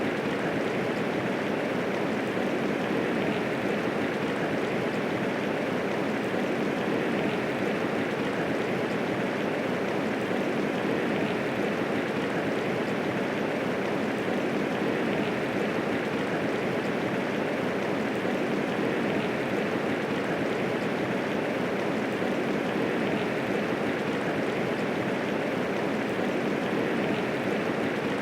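Steady medium rainfall, an even dense hiss of rain with no thunder.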